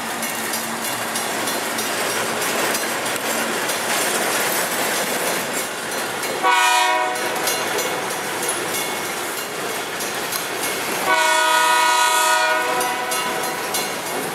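Freight train rolling past close by, with steady wheel and rail noise and clicking over the rail joints. The locomotive horn sounds twice: a short blast about six and a half seconds in and a longer one about eleven seconds in.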